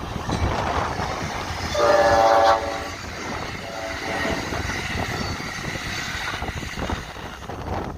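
Amtrak passenger train going by with a steady rumble and wheel clatter; its horn sounds one loud blast about two seconds in, then a shorter, fainter blast about a second later.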